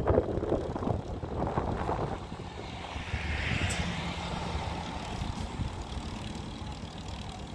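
A motor vehicle running by, a rough rumble that is louder in the first two seconds and eases off, with a brief hissing swell near the middle.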